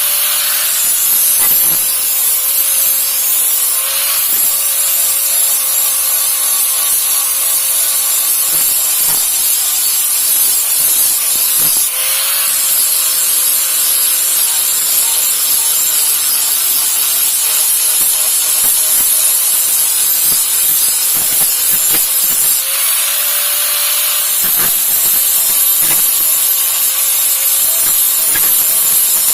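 Electric grinder running steadily against a steel machete blade, with a continuous hiss of metal being ground over a slightly wavering motor whine.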